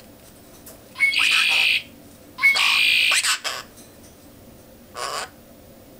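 Pet parrot squawking: two loud, harsh squawks of about a second each in the first half, then a shorter, quieter one near the end.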